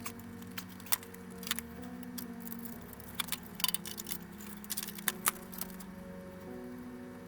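Scattered light metallic clicks and clinks as a computer case fan and its screws are handled and fitted back into the case, over quiet background music.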